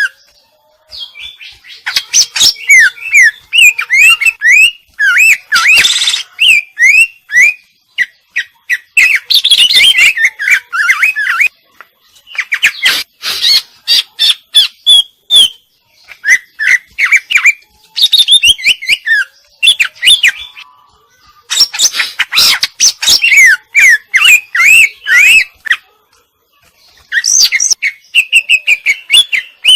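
Female green leafbird (cucak ijo) singing vigorously in long phrases of fast chirps, trills and whistled slurs, mixing in mimicked calls, with short pauses between the phrases.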